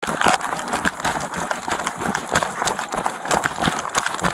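Rapid, irregular footfalls of a person running, several a second, picked up close by a police body-worn camera during a foot chase.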